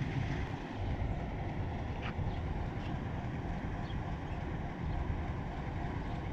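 Steady low rumble of a diesel locomotive engine running, with wind buffeting the microphone.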